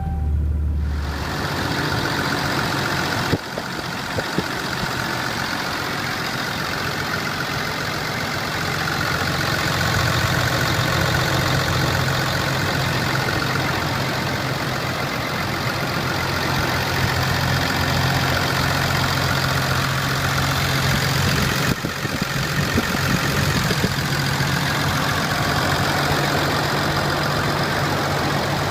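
A 6.7-litre Cummins turbo-diesel engine in a Dodge Ram 2500 idling steadily with a low, even hum. The sound breaks off briefly twice, about 3 seconds and 22 seconds in.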